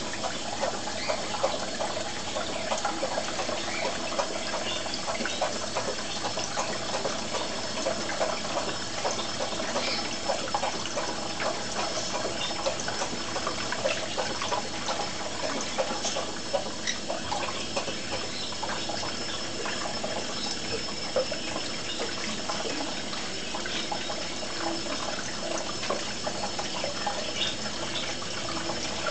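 Running water splashing steadily into cupped hands where a green-cheeked conure is bathing, with many small irregular splatters.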